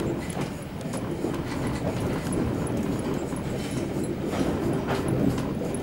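Train running along the track, heard from on board: a steady rumble with scattered wheel-on-rail clicks.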